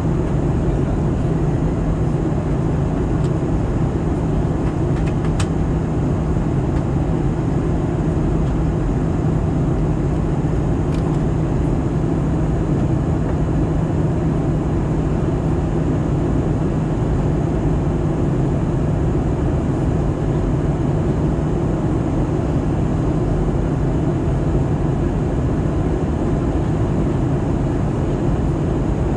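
Steady cabin noise of an Airbus A320-214 airliner in descent: a constant rumble of engines and airflow with a steady low hum underneath.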